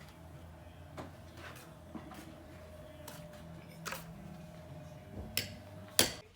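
A few sharp knocks and clicks, the loudest near the end, over a low steady hum.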